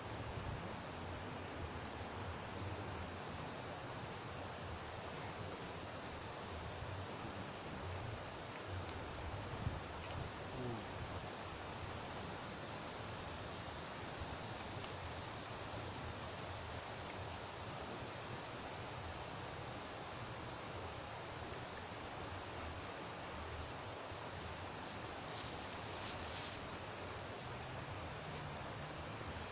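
Outdoor insects trilling on one steady high note without a break, over an even background hiss.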